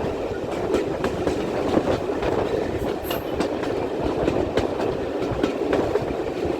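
Steam-hauled passenger train running along the line, a steady rumble with the clickety-clack of wheels clicking over the rail joints.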